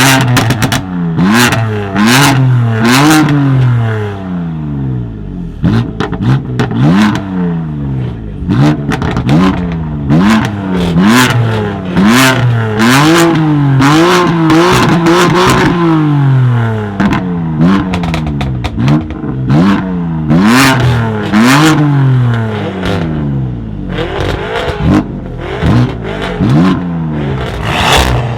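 A tuned car's engine revved again and again in quick blips, its pitch rising and falling about once a second, with one longer held rev midway. Sharp exhaust pops and bangs crack out between and after the revs.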